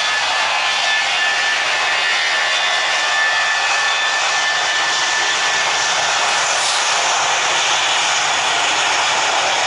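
Jet airliner engines heard up close: a loud steady rush of noise with a thin high whine that fades out a little past halfway.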